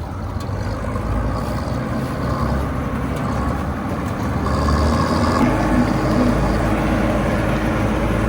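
Bizon combine harvester's diesel engine and machinery running steadily as it approaches, growing louder about five and a half seconds in.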